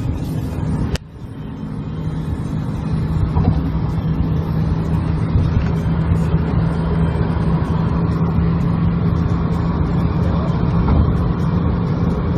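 Motor vehicle engine running with a steady drone and road noise. About a second in there is a sharp click and a brief dip in level, after which the drone resumes.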